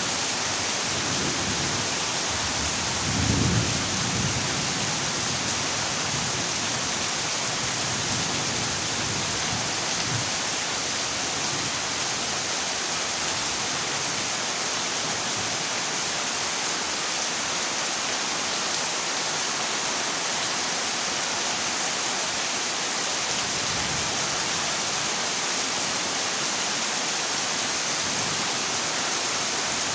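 Heavy rain falling on a corrugated zinc roof, a steady hiss, with a short low rumble of thunder about three seconds in.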